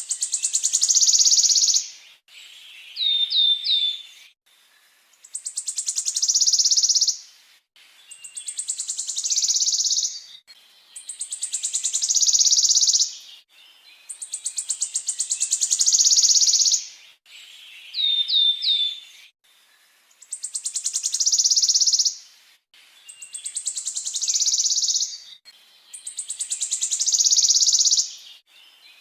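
Songbird singing a rolling trill over and over, as in a masteran training recording: each phrase is a fast run of pulses that grows louder and ends in a dense high rattle, repeating every two to three seconds. Twice, a quick run of three short falling whistled notes comes in between phrases.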